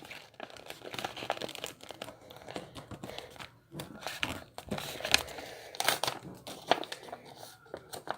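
A sheet of paper crinkling and rustling as it is folded and creased into a paper airplane's wings, in irregular crisp bursts, the sharpest around five to seven seconds in.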